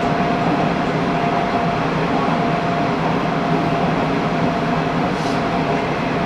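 Hanshin Railway local train running between stations, heard from on board: a steady rumble of running noise with a thin steady tone over it.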